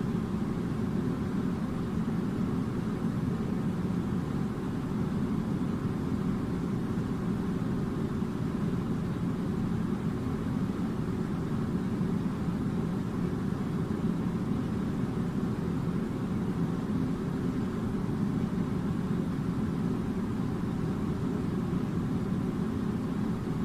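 Air conditioner running: a steady, unbroken low rushing noise.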